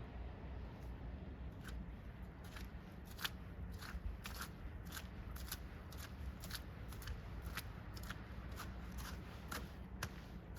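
Footsteps crunching in fresh snow, about two steps a second, starting a second or two in.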